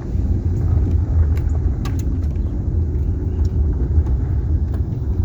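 Car driving slowly, a steady low rumble of engine and tyres on the road, with a few faint clicks and rattles.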